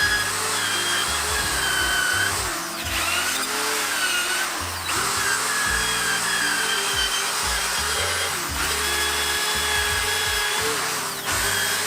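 Handheld electric power tool running against metal, cleaning the frame's repair area ready for welding. Its whine dips in pitch now and then and breaks off briefly a few times, over background music with a steady low beat.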